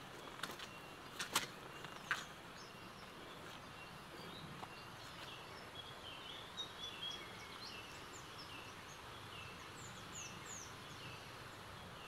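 Small birds chirping in the trees: many short high notes, some dropping in pitch, repeating from about three seconds in. A few footsteps about a second apart in the first two seconds are the loudest sounds.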